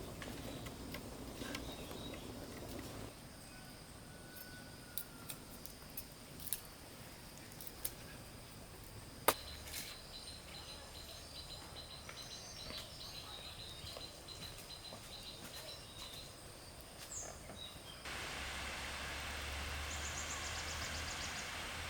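Outdoor rural ambience: faint insect and bird chirping with scattered sharp clicks and taps, and a louder rushing background near the end.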